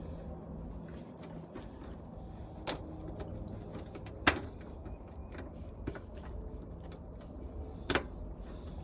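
Scattered sharp knocks and clanks of metal parts being worked loose while an old washing machine is dismantled, four hits in all, the loudest about four seconds in, over a low steady hum.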